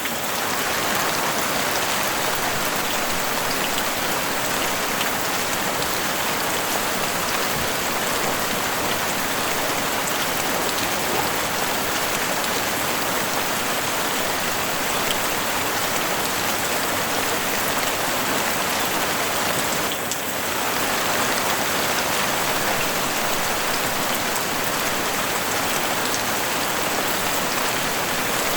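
Heavy rain falling steadily on a house roof: a dense, even hiss of rain with the tick of individual drops, dipping briefly about twenty seconds in.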